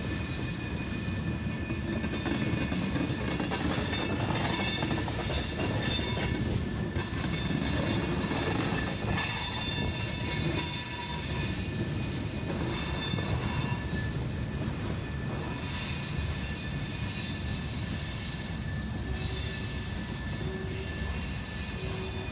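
Freight cars of a long CSX mixed freight train rolling past a grade crossing: a steady rumble of wheels on rail, with high-pitched wheel squeal that swells and fades, loudest around the middle.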